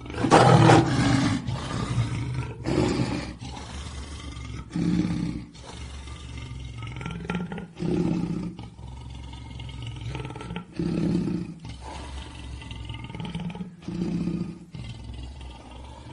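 Big cats roaring repeatedly: a loud roar right at the start, then shorter roars every couple of seconds.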